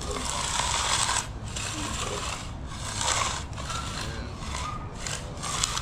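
Hand finishing tool scraping across fresh wet concrete in repeated strokes, about one a second, over a steady low rumble.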